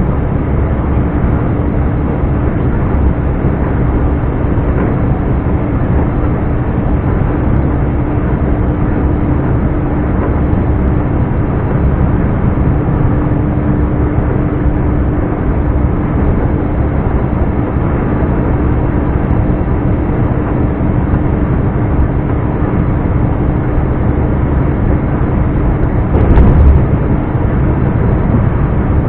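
Scania R420 truck's straight-six diesel engine running steadily while driving, with a level droning tone through most of the stretch. A brief loud thump comes near the end.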